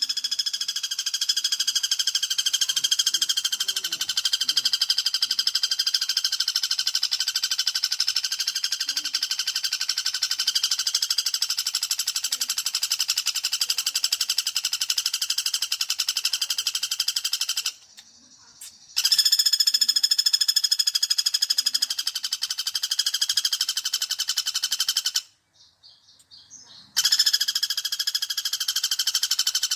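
Pelatuk bawang woodpecker (flameback) call as used for bird luring: a loud, very fast trilling rattle held on for long runs. It breaks off briefly twice, about 18 and 25 seconds in, and starts again each time.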